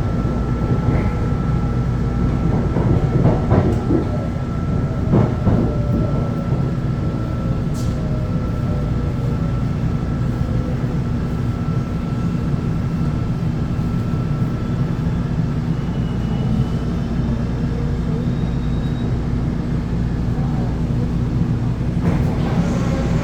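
Electric commuter train running on the rails: a steady rumble with a slowly falling motor whine, and a few short clicks from the track about three and five seconds in.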